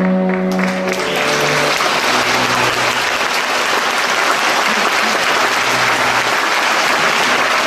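An orchestra's final sustained chord ends in the first second or two, swallowed by a large theatre audience breaking into loud, steady applause that fills the rest.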